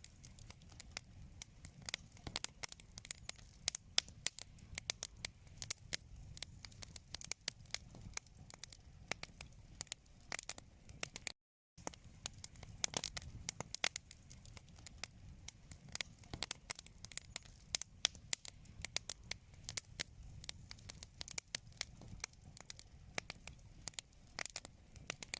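Wood fire in a fireplace crackling, with many irregular sharp pops and snaps over a soft low hiss. The sound cuts out completely for a moment about halfway through.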